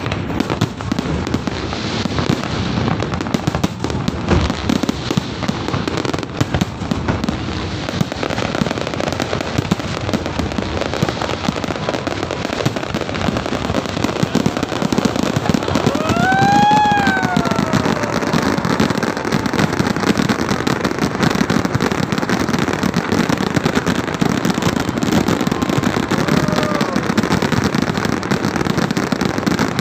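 Dense, continuous crackling and popping of many fireworks and firecrackers going off at once. About sixteen seconds in, a whistling firework rises and then falls in pitch, and a fainter one does the same near the end.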